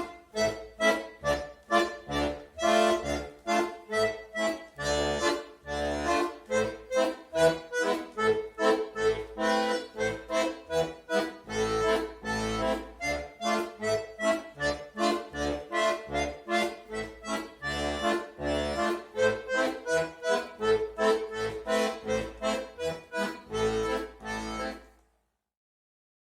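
Accordion playing a quick, lively tune over rhythmic bass chords. The music cuts off suddenly near the end.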